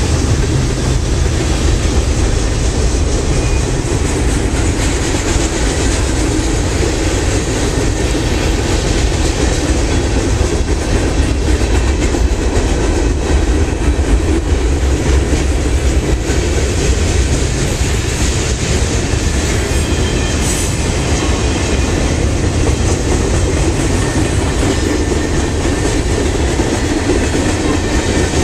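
Freight cars of a mixed freight train rolling past at close range: a steady rumble and clickety-clack of steel wheels over the rails.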